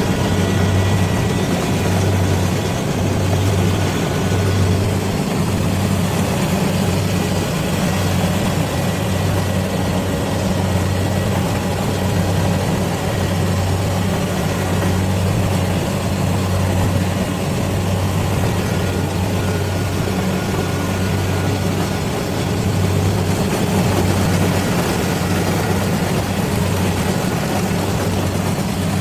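Rice combine harvester's engine running steadily, a constant low hum with no change in pace.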